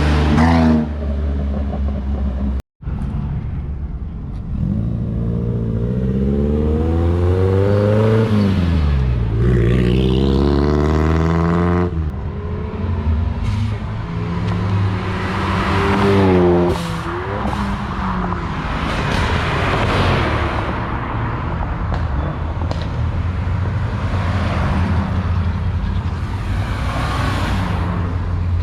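Cars accelerating hard one after another, engine pitch climbing and dropping as they rev and shift, over steady engine noise. The sound drops out for an instant about three seconds in.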